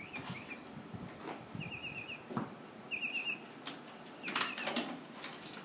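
A small bird chirping: four short runs of four or five quick, high notes, a second or so apart, over a faint steady high-pitched whine.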